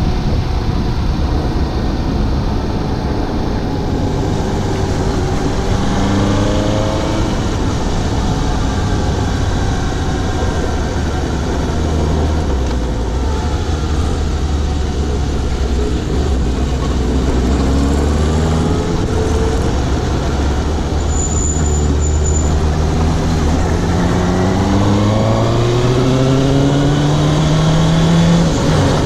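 Suzuki GSX750 motorcycle's inline-four engine riding through town, revving up repeatedly as it accelerates and settling back to a steady low run between pulls, with wind noise on the microphone. A brief faint high beep sounds a little past the middle.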